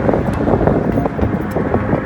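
Strong wind buffeting the microphone, with road traffic going by underneath.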